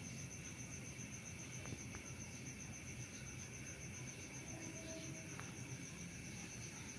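Cosmos 56-CBA 56-inch industrial ceiling fan running steadily, a low hum with a wash of air noise. A steady high-pitched pulsing trill goes on throughout.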